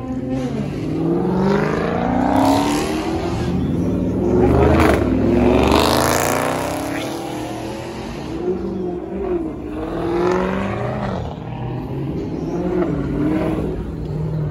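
Muscle car engines revving hard, their pitch climbing and dropping several times; loudest about five seconds in.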